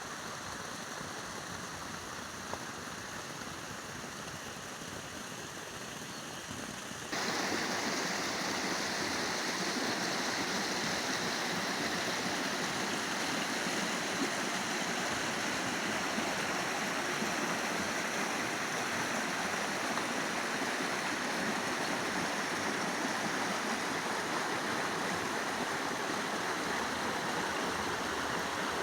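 Steady rush of flowing water, like a stream or small waterfall, which jumps suddenly louder about seven seconds in and stays at that level.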